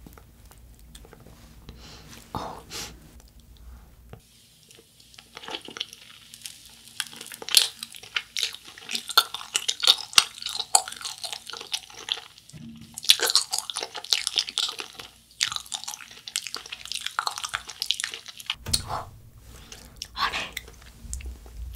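Close-miked biting and chewing of a Planet Gummi globe-shaped gummy candy: a rapid run of wet, crackly clicks from the soft gummy shell being chewed. It starts a few seconds in and thins out near the end.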